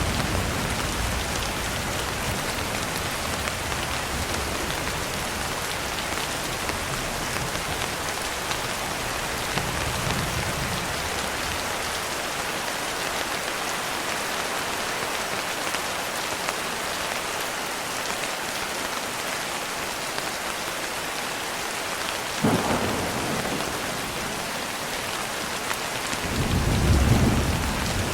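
Steady rain on a surface with thunder. A low rumble fades at the start and another comes about a third of the way in. A sharp crack of thunder comes about three-quarters of the way in, and a louder rolling rumble near the end.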